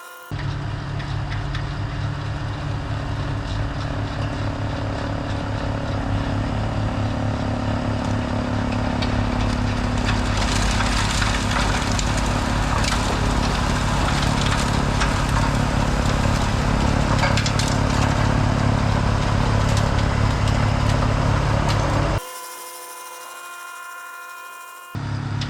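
Snowblower engine running steadily under load, with a rushing noise that builds through the middle. About 22 s in it cuts abruptly to a quieter stretch with a steady whine.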